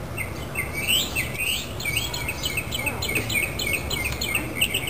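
Small birds chirping repeatedly, quick short sweeping notes about two or three a second, over a low steady background rumble.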